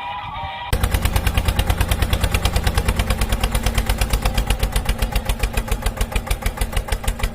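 An engine running with a steady, rapid chugging beat, about seven beats a second, starting abruptly just under a second in.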